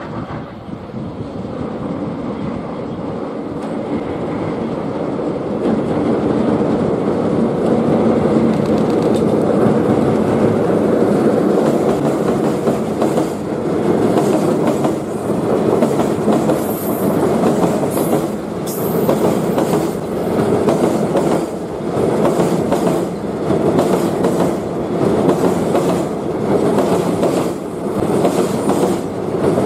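JR Freight EF65 electric locomotive hauling a container freight train across a railway bridge. The running noise grows louder over the first several seconds as the locomotive approaches and passes. Then the Koki container flatcars roll by with a regular clickety-clack of wheels, swelling about every two seconds as each wagon goes past.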